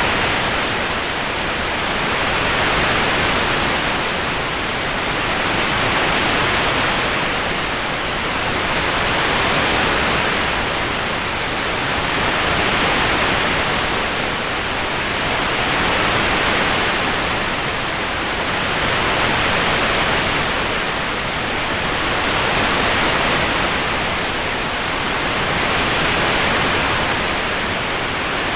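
Steady rain sound: an even hiss of falling rain that swells and eases gently about every three and a half seconds.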